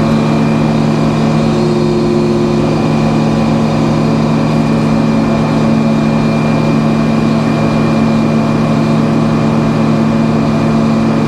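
Sawmill engine running steadily at an even speed, a constant hum with no cut under way.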